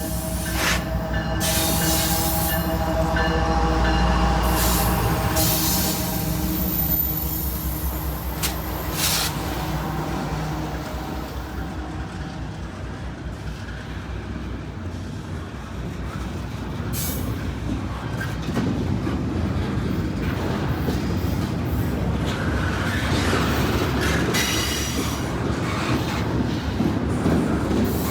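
CSX freight train passing close by: diesel locomotive engines running with a deep steady hum and rumble for the first ten seconds or so, then the cars rolling past with steady wheel noise, occasional clanks and some wheel squeal.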